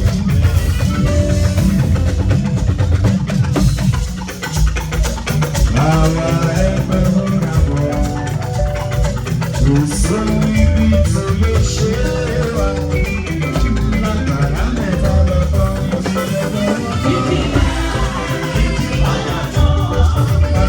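Band music with drums, bass and guitar playing a steady beat, with some singing.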